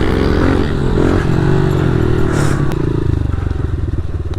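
Pit bike engine running on throttle, then easing off about three seconds in to a lower, pulsing beat as the bike slows.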